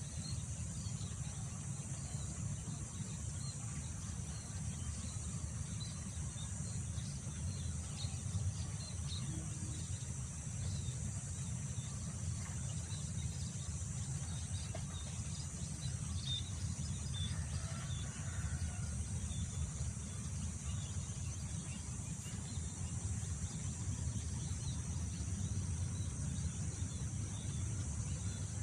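Outdoor field ambience: a steady low wind rumble under a continuous high-pitched insect chorus, with faint scattered bird chirps.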